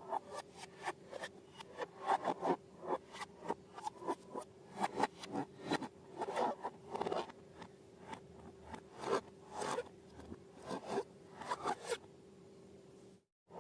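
Close-up handling noise from slime-making with balloons: a run of short, crisp scraping and rustling strokes, a few a second, that stops about twelve seconds in.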